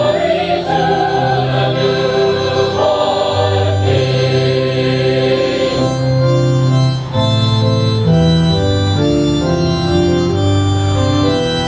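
Choir singing with keyboard accompaniment; the voices drop out about six seconds in and the accompaniment carries on alone in steady, held notes.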